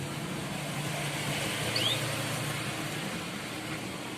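A canary gives one short rising 'cuit' chirp a little under two seconds in, over a steady low hum and hiss.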